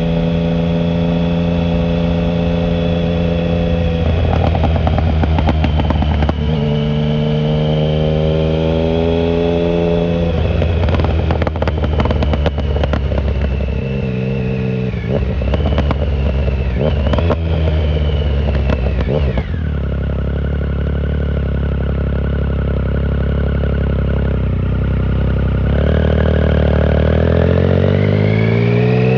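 2009 Triumph Speed Triple 1050's three-cylinder engine through a short Competition Werkes exhaust with no silencer, riding hard: the engine holds, then rises in pitch under acceleration, with a run of sharp crackles and pops off the throttle in the middle. About two-thirds in the note drops suddenly to a low steady drone, then climbs again near the end as the rider accelerates.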